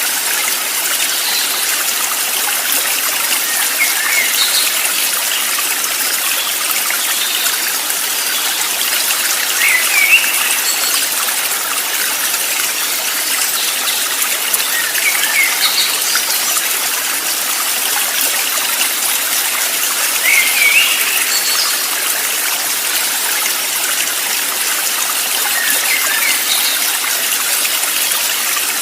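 Steady rush of a flowing stream, with short bird chirps breaking in every five seconds or so.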